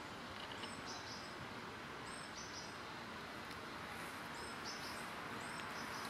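Wild birds calling: short, high chirps in twos and threes every second or two, over a steady outdoor hiss.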